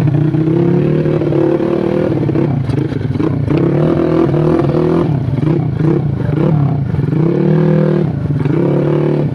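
Modified Yamaha Jupiter Z 130cc motorcycle engine running and revving up and down repeatedly, its pitch rising and falling every second or so.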